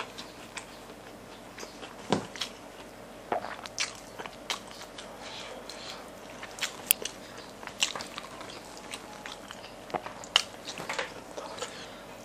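Close-miked chewing of crispy fried chicken and rice, with irregular wet mouth clicks and crunches as he eats and picks at the chicken with his fingers.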